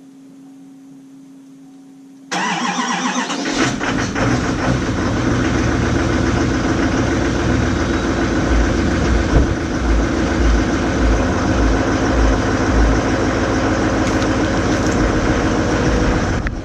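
Cold start of a 2019 Chevy Silverado 2500HD's 6.6-litre L5P Duramax V8 turbodiesel in near-zero-degree cold. A faint steady hum comes first. About two seconds in the engine cranks and catches within a second, then runs loud and rough at a cold idle.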